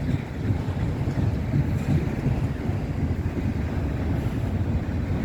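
Empty autorack car carriers of a freight train rolling slowly past, a steady low rumble of steel wheels on rail.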